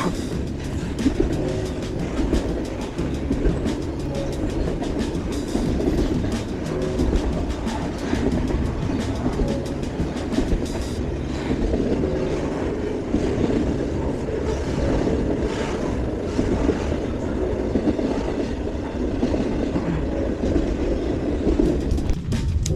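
Train passing on the nearby tracks: steel wheels rolling on the rails in a steady heavy run of noise, with many quick clacks over the rail joints. It cuts off shortly before the end.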